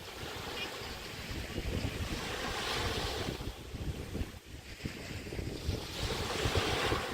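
Waves breaking and washing up on a Chesapeake Bay beach, swelling about three seconds in and again near the end, with wind rumbling on the microphone.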